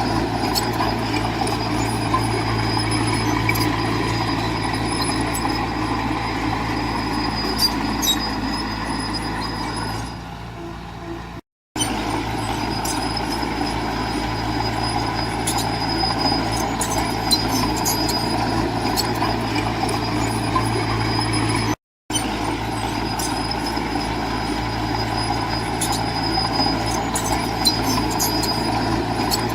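Heavy diesel earthmoving machinery running steadily under work, with scattered metallic clanks and clicks. The sound drops briefly just before it cuts out twice, about a third of the way in and again about three quarters of the way in.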